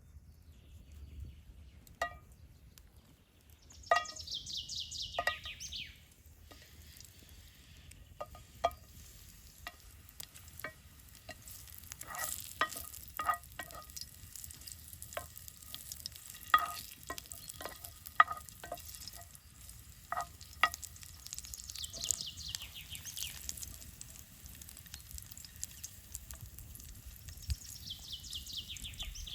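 A metal utensil stirring and clinking in a metal cooking pan, with irregular ringing clinks and three high scraping strokes that fall in pitch.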